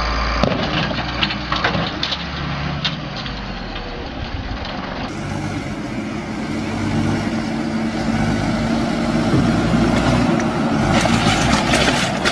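Heavy vehicle engine running, with scattered knocks and clatter. The sound changes abruptly about five seconds in and again near the end.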